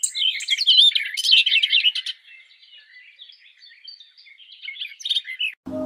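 Several songbirds chirping and singing in quick, high warbles, dense and loud for the first two seconds, then sparser and quieter. The birdsong cuts off suddenly near the end, and calm music with held tones begins.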